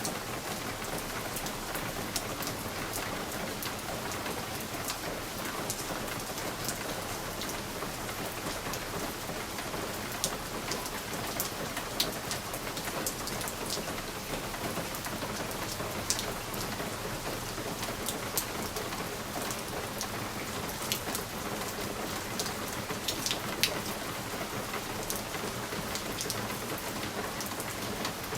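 Steady rain falling on a window pane: an even hiss of rain with many scattered sharp ticks of single drops striking the glass.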